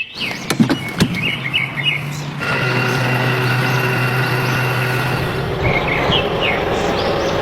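A model construction truck's small motor runs with a steady hum for about three seconds. It is preceded by a few short chirps and clicks.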